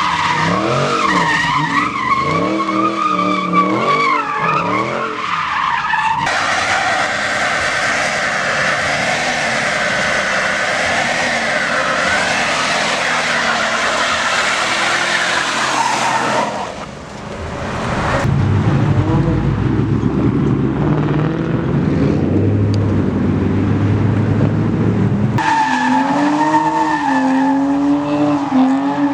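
Vehicle engines revving hard with tyres squealing in burnouts and drifts, the engine pitch rising and falling. The sound changes abruptly several times, about six, seventeen and twenty-five seconds in, as separate clips are cut together.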